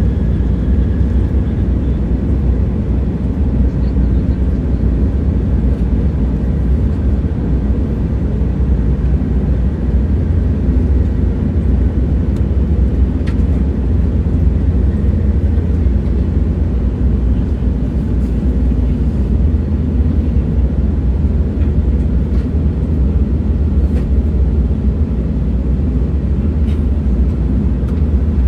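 Train in motion: a steady low rumble with a few faint clicks scattered through it.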